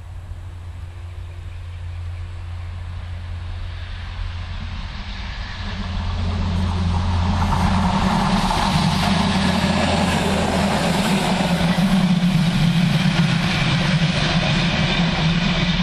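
Diesel railcar approaching along the track and passing close by, its engine and wheels on the rails growing louder, with a sharp rise about six seconds in before staying loud.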